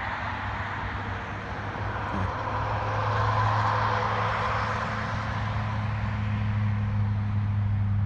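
Road traffic from a nearby highway: a vehicle's noise swells to its loudest a few seconds in and then eases off, over a steady low hum.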